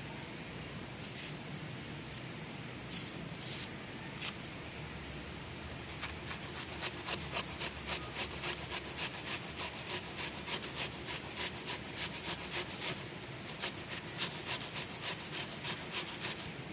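Scraping strokes on wood: a few separate strokes at first, then from about six seconds in a fast, even run of about four strokes a second, over a faint steady hiss.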